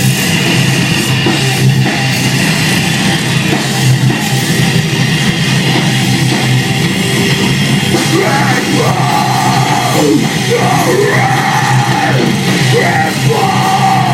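Live heavy metal band playing loud and steady, with a vocalist yelling over the music from about eight seconds in.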